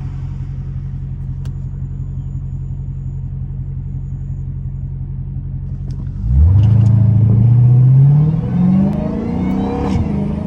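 Straight-piped Dodge Hellcat Redeye's supercharged HEMI V8 running at a steady low drone, then about six seconds in the throttle opens hard and the engine gets much louder, rising in pitch for a few seconds before easing off near the end.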